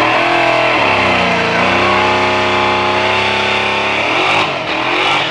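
A vehicle engine at full throttle, accelerating down a drag strip. Its pitch dips about a second in, as at a gear change, then climbs again and holds steady.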